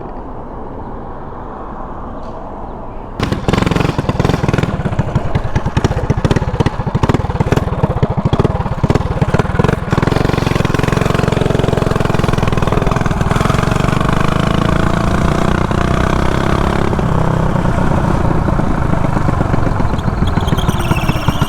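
Mini bike engine, quieter for the first three seconds, then suddenly loud as the bike is throttled up and ridden off, its pitch rising and falling with the throttle.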